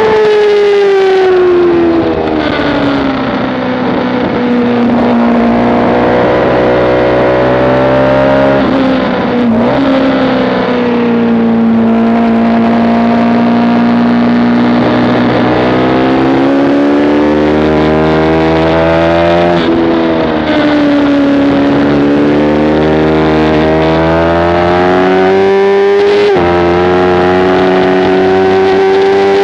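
Motorcycle engine at track speed, heard onboard, revving up and down through corners. The pitch drops away over the first few seconds, holds low, then climbs again, with a few sudden steps in pitch from gear changes.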